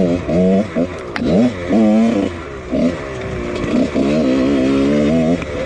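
1999 Husqvarna CR125 two-stroke 125 cc dirt bike engine being ridden hard, the throttle opened and shut again and again, so the pitch rises and drops in quick swoops every second or so.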